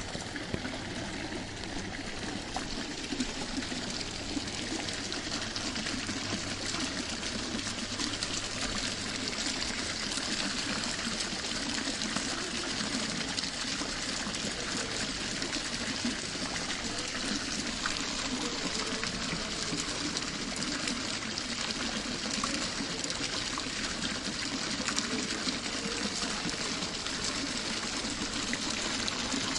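Running water, a steady pour or trickle with fine splashing flicker that does not let up.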